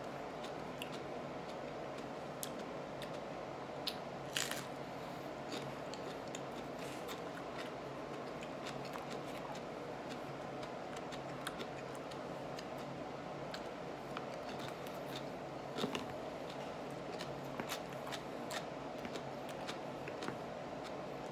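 Whole raw jalapeño peppers being chewed: scattered crunches and wet mouth clicks, the loudest about four seconds in and again near sixteen seconds, over a steady low room hum.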